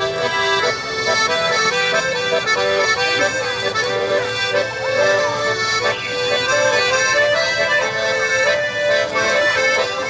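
Accordion playing a tune: held chords and bass notes under a moving melody.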